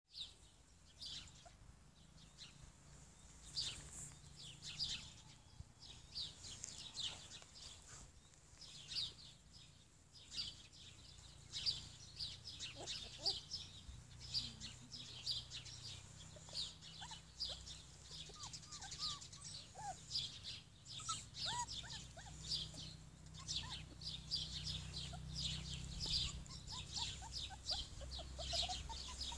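Small birds chirping and twittering over and over, short quick high notes, with a few lower chirps in the second half. A low steady rumble runs underneath and grows stronger after the middle.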